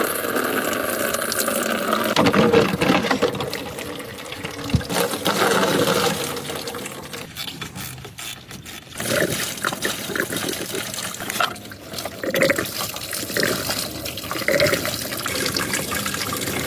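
Liquid pouring and splashing unevenly, swelling and easing off, with a lull about halfway through.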